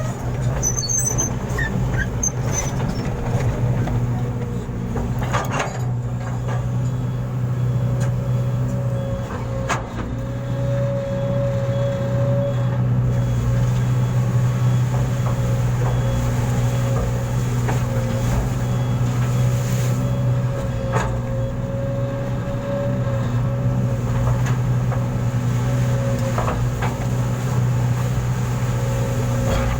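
Truck engine running steadily with a low hum, and a few sharp knocks now and then.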